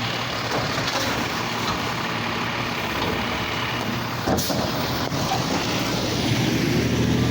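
Garbage truck engine running, with a sharp knock about four seconds in and the engine note rising near the end.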